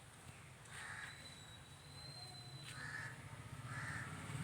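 Crows cawing faintly, about four short caws roughly a second apart, over a low steady hum.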